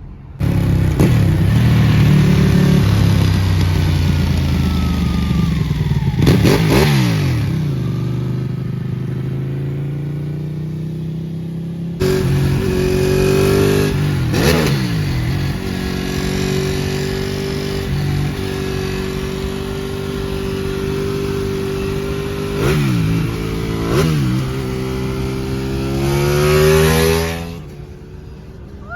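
Ducati Panigale 899's L-twin engine running hard and revving, its pitch dropping sharply and climbing again several times. It swells to a loud peak near the end, then falls away.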